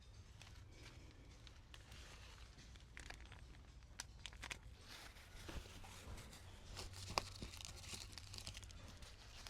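Faint rustling with scattered light clicks and taps, like things being handled.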